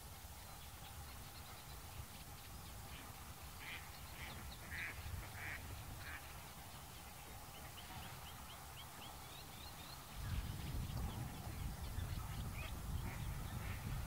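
A marsh bird gives a run of about five short calls roughly half a second apart, followed by faint small chirps. About ten seconds in, a low rumble starts and the overall level rises.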